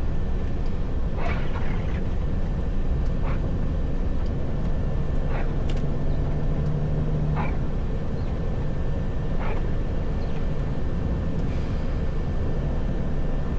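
Truck engine droning steadily as heard inside the cab while driving, with a short swishing sound recurring about every two seconds.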